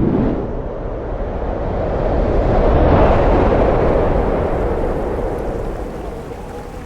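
Loud rushing, rumbling noise that swells to a peak about three seconds in and then slowly eases off.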